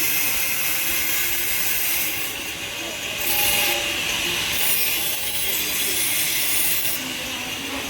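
Harsh rasping noise of a hand tool working metal, like sawing or filing, with a few brief breaks.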